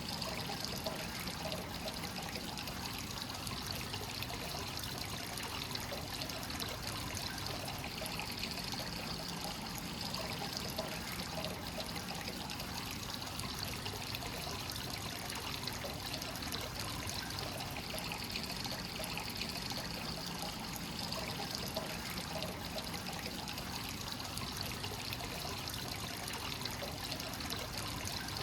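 Free-flowing hot spring water running steadily into an onsen bath with an unbroken trickling and splashing. This is the constant overflow of a kakenagashi (source-flowing) spring.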